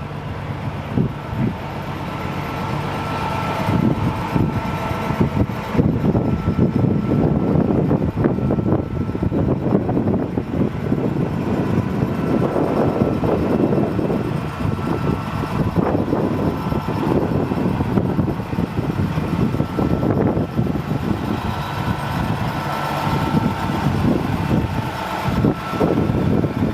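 Diesel engine of a 1996 Peterbilt 379 dump truck running steadily, growing louder over the first few seconds, with a faint high whine coming and going above it.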